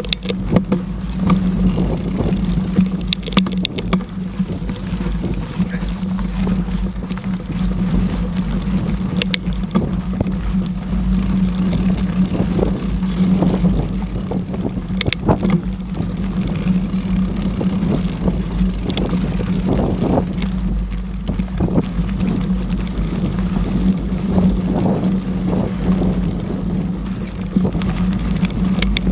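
Mountain bike riding along a trail: steady wind rumble on the microphone, with scattered knocks and rattles from the bike over rough ground.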